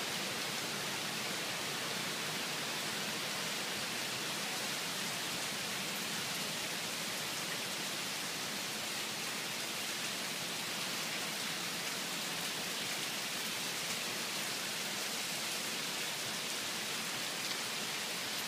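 Steady heavy rain falling on trees and ground, an even, unchanging hiss.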